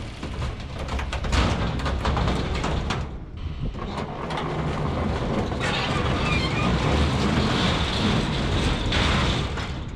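A 2000 Toyota Corolla's four-cylinder engine running hard under load as the car pulls a heavy load off a trailer. A harsher, higher noise joins a little past halfway.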